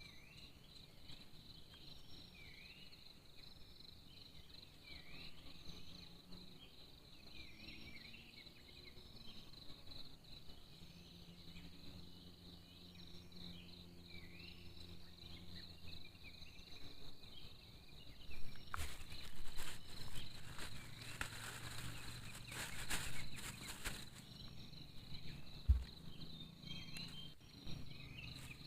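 Forest insects droning steadily at a high pitch, with short repeated chirping calls beneath. A louder stretch of rustling and clicking cuts in from about 19 to 24 seconds in.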